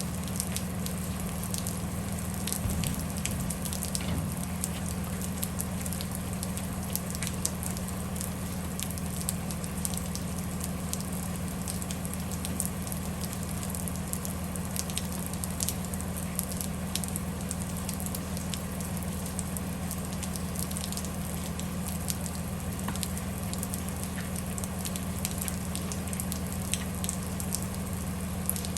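Steady low hum inside a bus cabin, with a scattering of light ticks from rain on the windows and roof.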